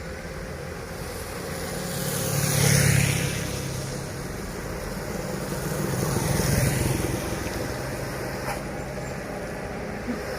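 Road traffic on a hill climb: a steady low engine drone throughout, with two vehicles passing close by, loudest about three seconds and seven seconds in.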